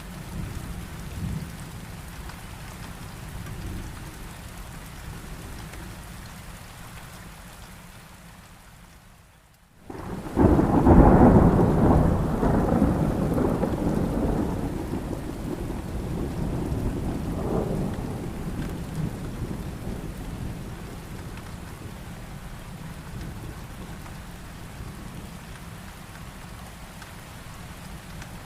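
Steady heavy rain that cuts out briefly about a third of the way in, followed by a loud clap of thunder that rolls away over several seconds, with a second, smaller rumble a few seconds later; the rain keeps falling after it.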